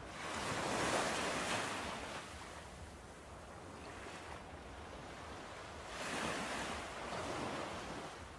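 Sea waves breaking, two surges about five seconds apart, each swelling and fading back into a steady hiss of surf.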